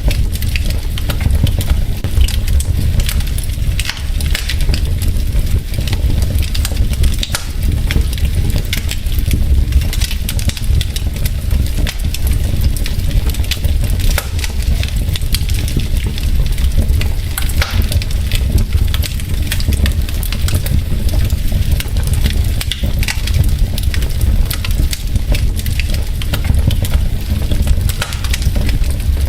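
Wood logs burning in a fireplace, crackling with many irregular sharp pops and snaps over a steady low rumble.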